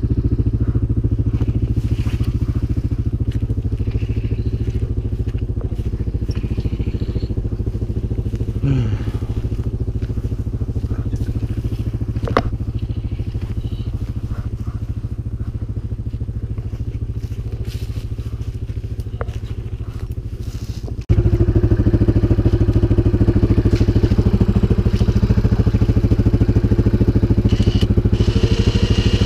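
CFMoto 500 ATV engine running steadily at an even, low speed. About two-thirds of the way through, the sound breaks off sharply and comes back louder.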